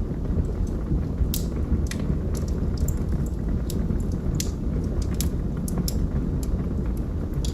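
Wood fire burning in a fireplace: a steady low rumble of flames with irregular sharp crackles and pops from the burning logs, one or two a second.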